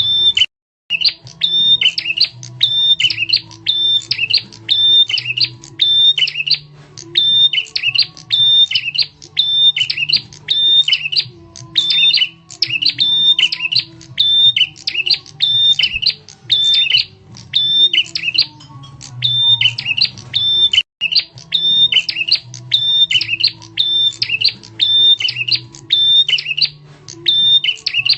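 Prenjak tamu bird lure call: a loud, sharp, high chirping phrase repeated over and over, a little under once a second, as used to draw other birds in. A faint low hum runs underneath.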